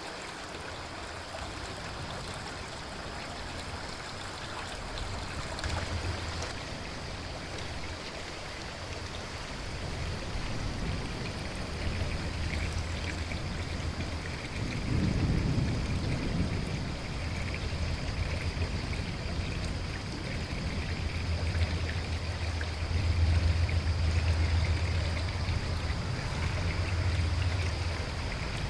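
River flowing steadily with rain falling, under low rolling thunder that swells about halfway through and again, loudest, near the end.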